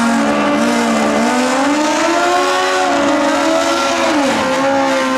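Drag-racing motorcycle engine running at high revs, its pitch holding, dipping and climbing again several times.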